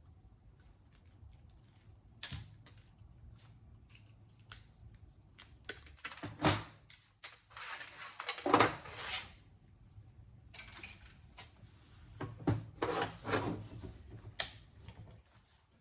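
Scattered clicks, clatter and knocks of hands and tools working a circuit board apart, with a few louder sharp snaps and thuds as parts such as MOSFETs are cut or broken off the board.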